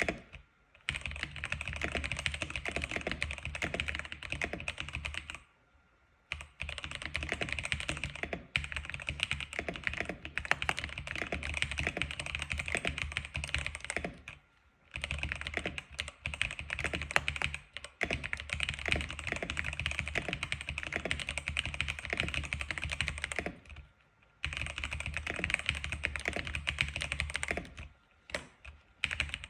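Continuous fast typing on an X87 keyboard: rapid runs of keystroke clicks, broken by brief pauses about six, fifteen and twenty-four seconds in and again near the end.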